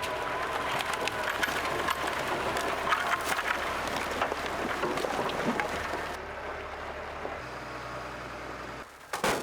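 Tractor engine running steadily while a front loader scoops firewood, with loose wood knocking and clattering in the bucket. The clatter thins out about six seconds in.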